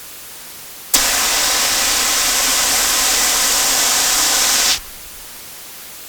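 A steady, loud hiss that comes on abruptly about a second in, holds even for nearly four seconds, then cuts off sharply.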